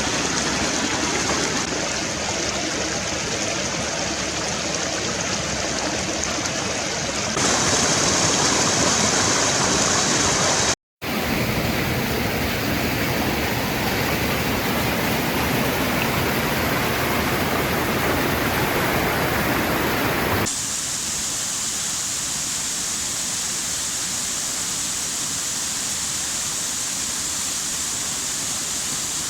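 Rushing water, a steady hiss of a mountain stream or waterfall with no distinct tones. It changes abruptly in loudness and tone twice and cuts out for a split second near the middle.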